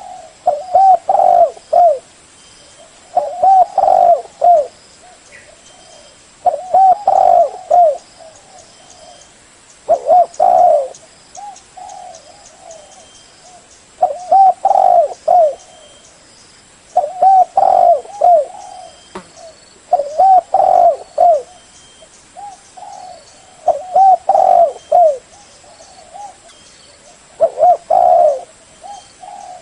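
Spotted dove cooing: phrases of several short, arched coos, repeated about every three seconds.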